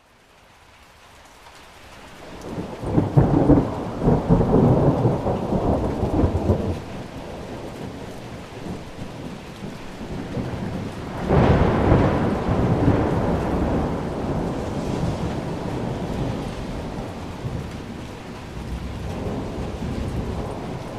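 Thunder rolling over steady rain. A long rumble builds over the first few seconds and peaks about three to seven seconds in. A sharper clap comes about eleven seconds in and rolls away slowly.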